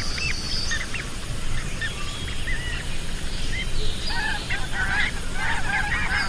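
Many birds calling in short, repeated arched calls, scattered at first and then thickening into a dense, overlapping chorus about four seconds in, over a low steady rumble.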